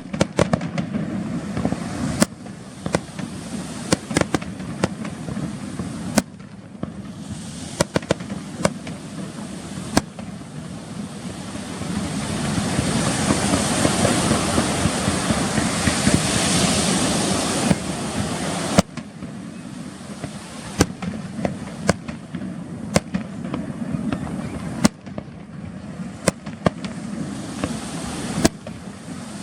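Aerial fireworks display: repeated sharp bangs of shells bursting, with a loud dense crackling hiss swelling in the middle for several seconds.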